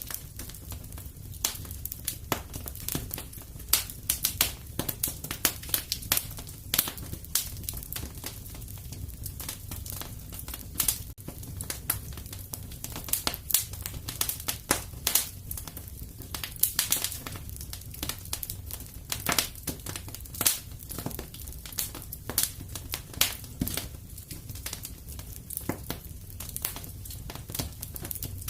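Fire crackling in a fireplace: dense, irregular sharp snaps and pops over a steady low rumble.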